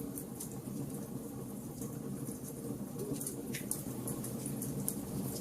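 Wood fire in a fireplace crackling: irregular small sharp pops and snaps, a slightly louder pop about three and a half seconds in, over the steady low rush of the burning flames.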